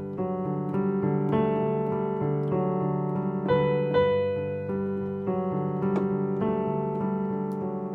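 Piano playing a gentle, flowing left-hand broken-chord pattern in G (root, fifth, octave), with the right hand resting on B, the chord's third, and adding a small sixteenth-note decoration. The notes change in an even rhythm and are left ringing near the end.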